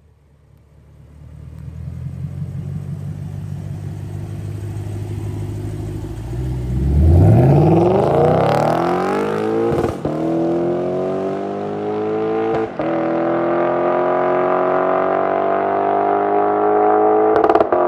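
A 2023 Lexus IS 500's 5.0-litre V8 through a titanium exhaust: a low drone at light throttle, then about seven seconds in a hard acceleration with the revs sweeping quickly up. Two brief breaks come at upshifts, after which the engine note climbs steadily again.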